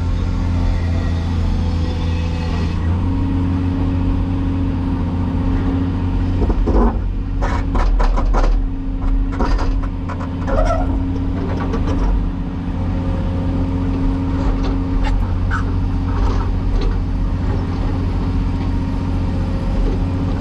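Cat 336E excavator's diesel engine running steadily under load, with a run of sharp clanks and knocks about a third of the way in and a few more later.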